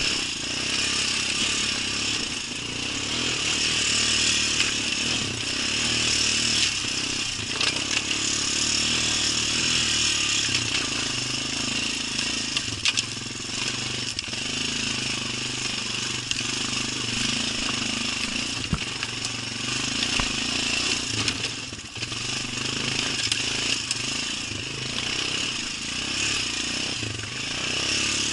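ATV engine running steadily as the quad is ridden, with a steady hiss over it and a few brief knocks.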